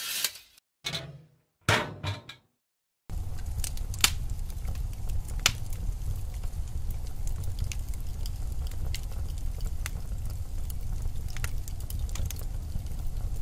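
Wood fire burning in a fireplace: a steady low rumble of flames with scattered sharp crackles and pops from the burning logs. It opens with a few short cut-off fragments separated by dead silence, and the continuous fire sound starts about three seconds in.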